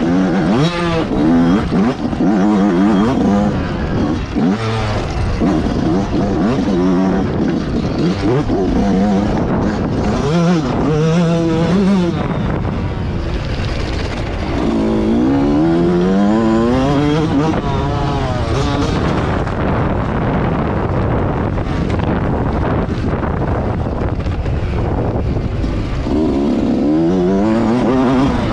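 Motocross bike engine, recorded onboard while riding, revving up in pitch and dropping back again and again as the rider accelerates, shifts and rolls off.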